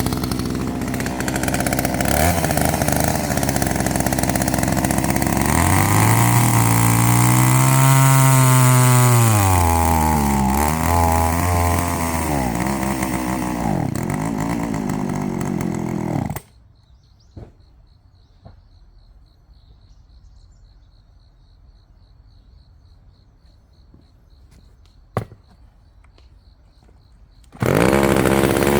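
Chainsaw running under load while cutting firewood, its engine note sagging and rising as the chain works through the wood. It cuts off suddenly about halfway, leaving a quiet stretch with a faint high steady tone and a few sharp clicks, then the saw is running again near the end.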